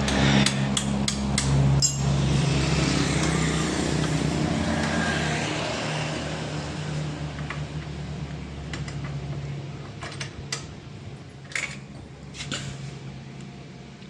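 Hand tools working on the scooter's lower exhaust bolt: sharp metal clicks about three a second for the first two seconds, then a few scattered knocks near the end, over a steady low hum.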